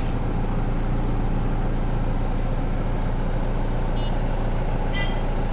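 A motor vehicle engine idling steadily, a low even hum under outdoor street noise.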